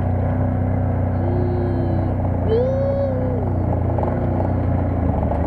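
Buggy engine running steadily under way, with a high voice letting out two long, wavering cries over it about a second and two and a half seconds in.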